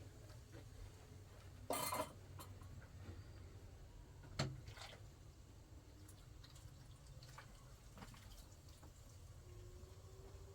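Low steady hum with a short burst of noise about two seconds in and a single sharp knock or clink about four and a half seconds in, plus a few faint ticks.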